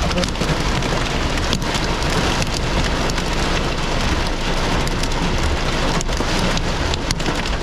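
Heavy rain mixed with hail pounding on a car's roof and windshield, heard from inside the car: a dense, loud hiss studded with frequent sharp ticks of stones striking.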